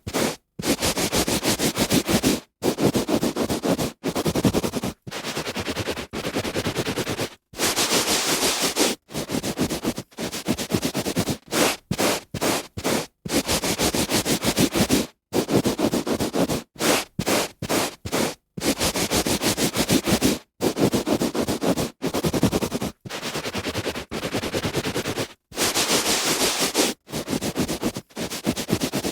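Hand rubbing back and forth on a carpet: strokes of scratchy friction noise one to two seconds long, separated by brief silent breaks.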